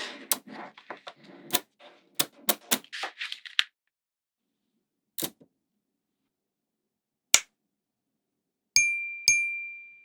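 Small magnetic balls clicking and rattling as they snap together, in quick clusters for the first few seconds and then a couple of lone clicks. Near the end come two ringing dings about half a second apart, each held as a steady tone.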